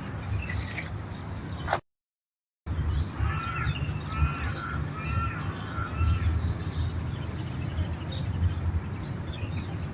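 A bird calling, a quick run of about six calls, over a steady low rumble. The sound cuts out completely for under a second just before the calls.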